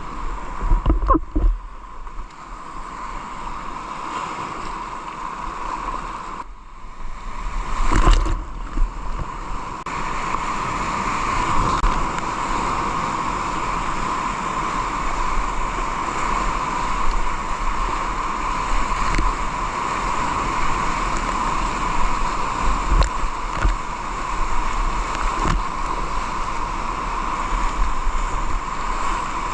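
Rushing river water, a steady wash, as heard from a kayak. A few short louder knocks or splashes come about a second in and again about eight seconds in.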